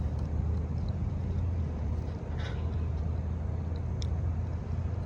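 Steady low mechanical hum, with a couple of faint clicks about two and a half and four seconds in.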